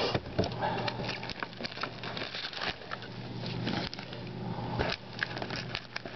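Cardboard trading-card box and foil-wrapped card packs being handled, with a continuous crinkling rustle and many small clicks and taps.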